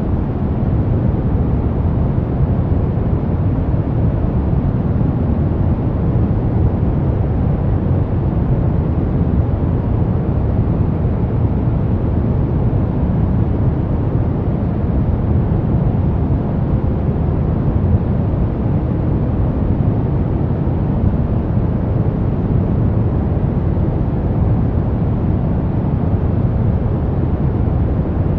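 Brown noise: a steady, even rumbling hiss, deepest in the bass and thinning toward the treble, with no tones or events.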